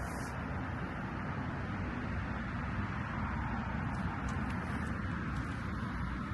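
Steady outdoor background noise: a low, unsteady rumble under an even hiss, with a few faint high ticks.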